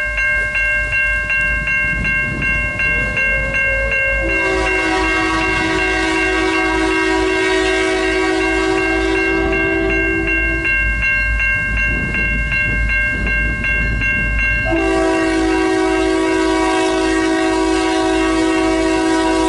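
Locomotive air horn blowing two long blasts, the first from about four seconds in to about eleven seconds, the second starting about fifteen seconds in, over a bell ringing rapidly throughout and the low rumble of a train.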